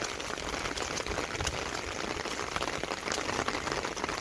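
Heavy rain falling: a steady hiss with many separate drop hits through it.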